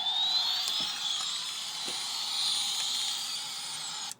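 Toy helicopter's whirring rotor noise: a high whine rising in pitch over the first second or so, then held steady over a loud whir, cutting off suddenly at the end.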